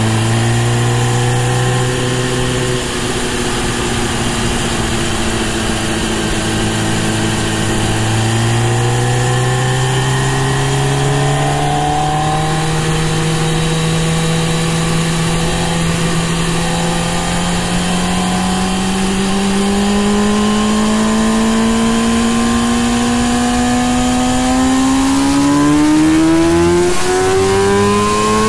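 2017 MV Agusta F4 RR's inline-four engine under way, heard over a steady rush of noise. The note drops briefly about three seconds in, then climbs slowly and steadily as the bike accelerates, and rises more steeply in the last few seconds.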